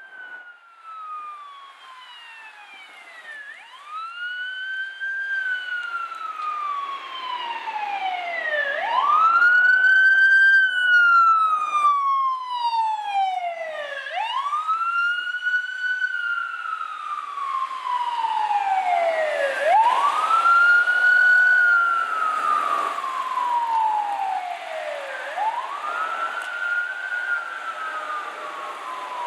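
Emergency vehicle sirens of responding LAFD fire apparatus on a slow wail: each cycle sweeps up quickly then falls slowly, repeating about every five and a half seconds, and grows much louder over the first ten seconds. A second, higher-pitched siren overlaps the wail briefly around the middle.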